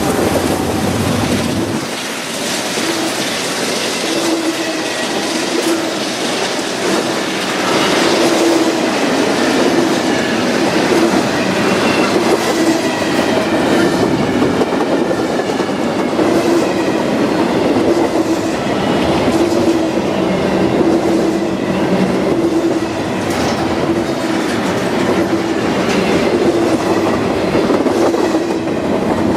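Train cars rolling past close by: a steady clatter of wheels over the rail joints, with a faint high wheel squeal at times. A deep low rumble drops away about two seconds in.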